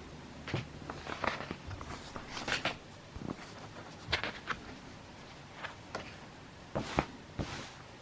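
Handling noise: a scattered series of short clicks and rustles, with the sharpest pair about seven seconds in.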